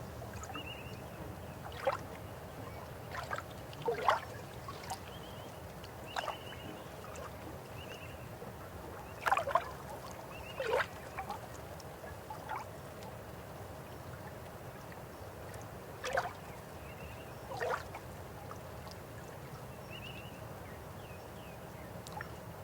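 River water flowing steadily, with irregular gurgles and splashes every few seconds, the strongest about four and ten seconds in. Faint short high chirps recur throughout.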